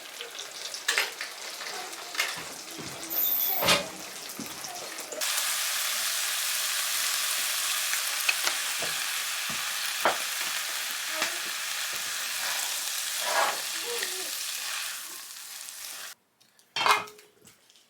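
Food sizzling in a hot pan: a steady, dense hiss that starts abruptly about five seconds in and cuts off suddenly near the end, with scattered clicks and knocks of utensils.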